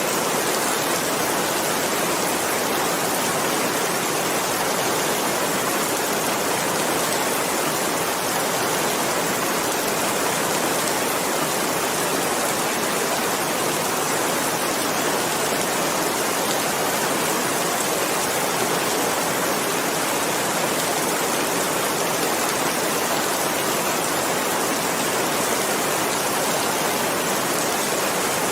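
Steady rainfall: an even, unbroken hiss of rain with no single drops standing out.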